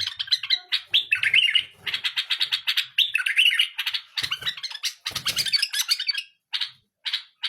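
Pet bulbul singing: rapid runs of chirps and warbling phrases broken by short pauses, with a few separate calls near the end.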